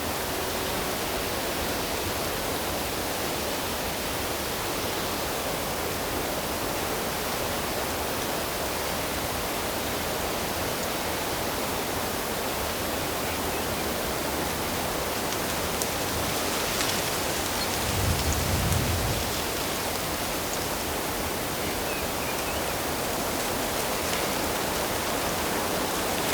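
Running water of a stream or waterfall, a steady, even rush. A brief low rumble comes about two-thirds of the way through.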